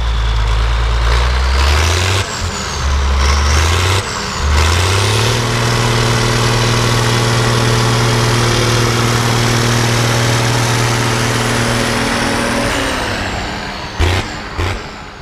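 Zetor tractor's diesel engine revving unevenly, then rising about five seconds in to a steady high-revving pull for about seven seconds before dropping back. Two sharp knocks follow near the end.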